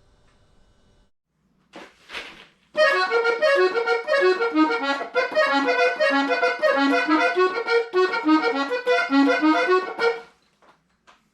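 Piano accordion playing a quick melody of many short notes for about seven seconds, starting about three seconds in after a couple of short noises, then stopping.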